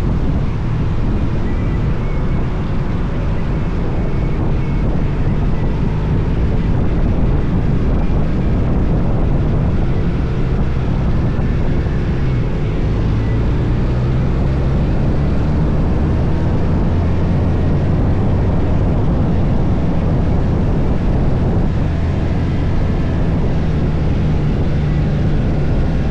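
Motorcycle engine running under way, with wind noise on the microphone; the engine's low pitch steps up and down a few times in the second half.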